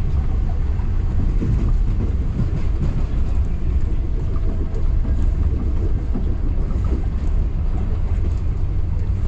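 Passenger train running along the track: a steady low rumble of wheels on rail, with faint scattered clicks.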